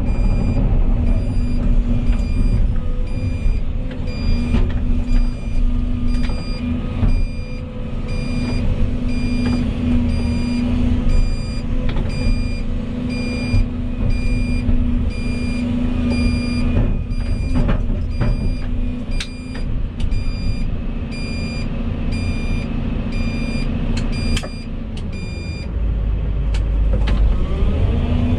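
Volvo EC220E excavator running with a steady engine and hydraulic hum, while a warning alarm beeps at a regular pace. Near the end the beeping stops and a deeper rumble swells.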